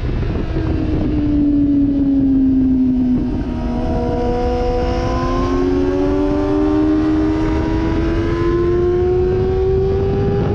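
Sportbike engine at speed on track, heard onboard: its pitch drops over the first few seconds, then climbs steadily as it pulls hard under throttle. Wind rushes over the microphone throughout.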